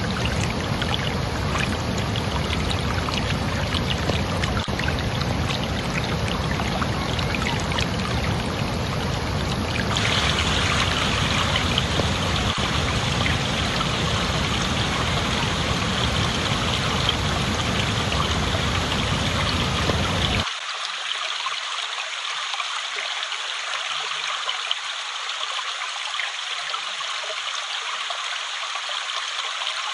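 Flowing water running steadily, like a stream or small cascade. The sound shifts abruptly about ten seconds in and again about twenty seconds in, and after the second change the deep rumble is gone, leaving a thinner, higher rush.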